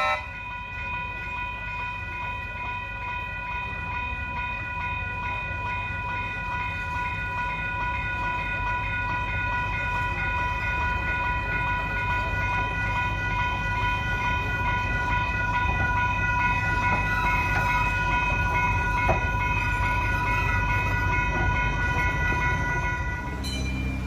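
Diesel-hydraulic tourist train running, a steady high whine of several even tones over a low rumble, growing slowly louder.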